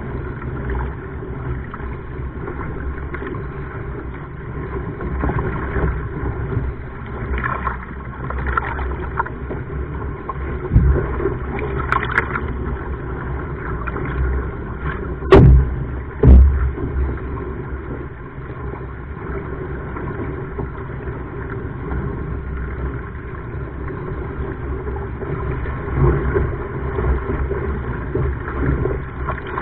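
Sea water sloshing and wind buffeting a camera mounted on a surfski, a steady low rumble, with two sharp, loud knocks a second apart about halfway through.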